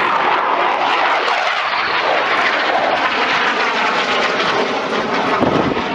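Eurofighter Typhoon's twin EJ200 turbofan engines running at high power as the jet climbs away from a touch-and-go. The loud jet noise swells sharply at the start and stays steady, with faint falling whines through it.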